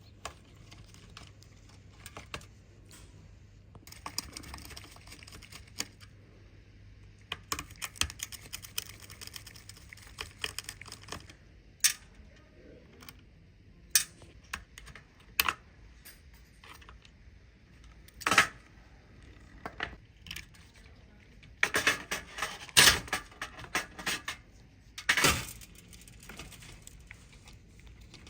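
Irregular clicks, taps and short scrapes of hand tools and small parts being handled at a workbench, with a few louder scraping bursts in the second half.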